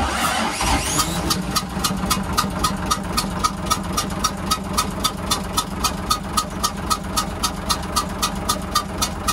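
Hyundai 6D16 diesel engine starting and then idling, with a loud, regular ticking puff several times a second. The mechanic suspects a damaged valve leaking compression and blowing back into the air intake.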